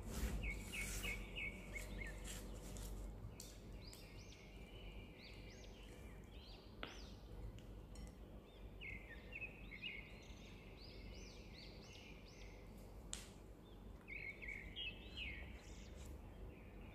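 Small birds chirping in clusters of short, quick chirps, over the soft scraping and occasional clicks of a silicone spatula working cream cheese and sugar in a glass bowl.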